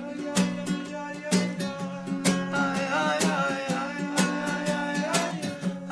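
Acoustic guitar strumming reggae chords in a short instrumental gap between sung lines, with crisp chord strokes at a steady pulse.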